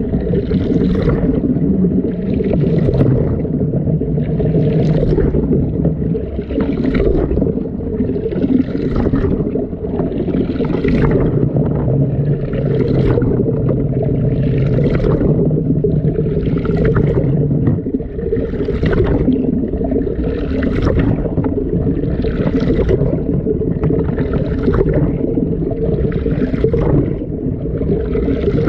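Washing machine drum turning with water and laundry, heard from inside the drum: a steady low rumble of the motor and water, with a sloshing, splashing surge about every two seconds as the load tumbles.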